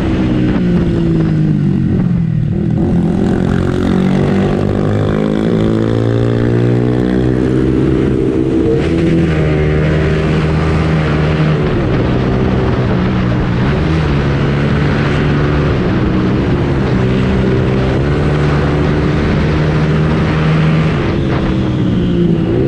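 Motorcycle engine and exhaust running under way. The pitch climbs with each acceleration, drops back at the gear changes and holds steady in between, several times over.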